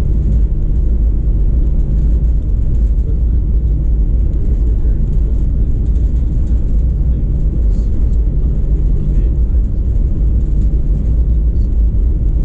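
Steady low rumble inside the cabin of an Airbus A319 airliner: engine and airframe noise heard from a passenger seat.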